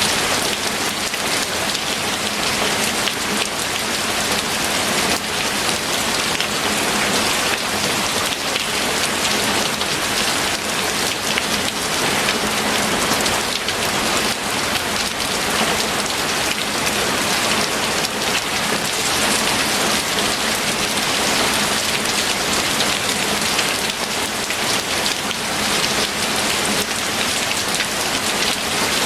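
Steady heavy rain, with a dense patter of drops falling on a surface.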